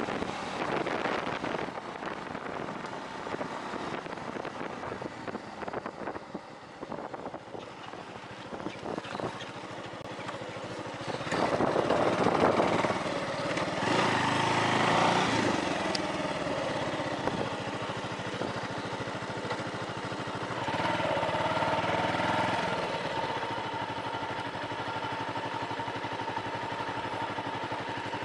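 Bajaj Avenger 220 motorcycle's single-cylinder engine running, getting louder for a few seconds about halfway through and again briefly later, then holding a steady note.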